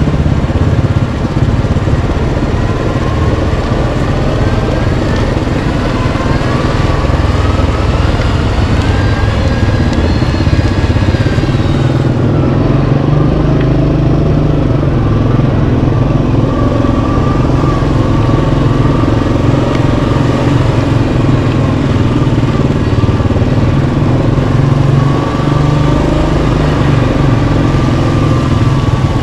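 Yamaha Kodiak 700 ATV's single-cylinder engine running steadily under way, its pitch rising and falling with the throttle.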